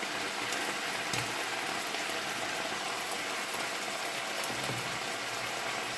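Chicken breast pieces sizzling steadily as they stir-fry in a nonstick wok, with a few light taps in the first second or so.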